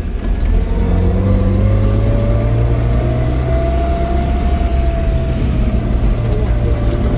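Car engine and road noise while driving, a steady low rumble with a whine that rises in pitch over the first few seconds and then holds steady as the car gathers speed.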